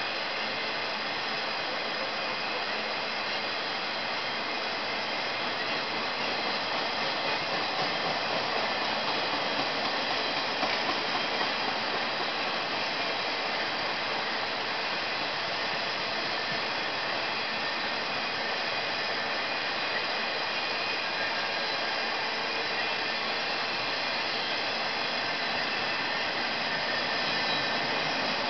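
A CSX freight train of flat cars rolling past, its wheels on the rails making a steady rushing noise that swells slightly a few seconds in.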